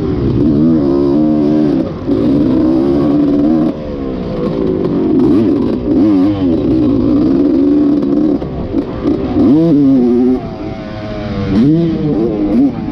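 Dirt bike engine revving up and down as it is ridden, its pitch climbing and dropping over and over with gear changes, with sharp rises near the end.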